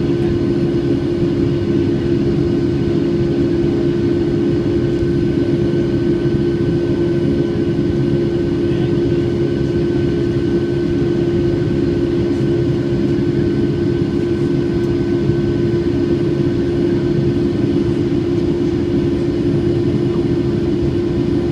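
Steady in-flight cabin noise of a Boeing 757-200, heard from inside the cabin: its Rolls-Royce RB211-535E4B turbofans run with an unbroken low drone and a few steady whining tones over the rush of air.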